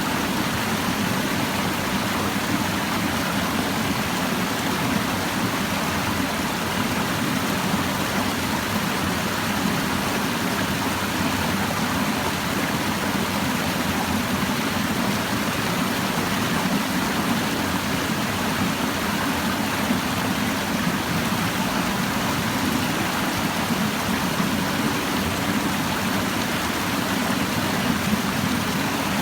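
Clear stream babbling over rocks, a steady rushing flow of water.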